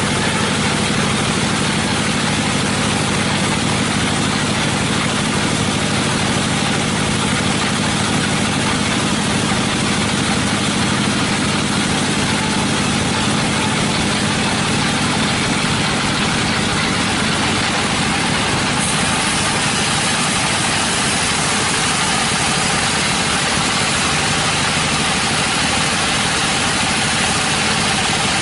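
Sawmill machinery running steadily, a loud continuous engine-like drone with no let-up.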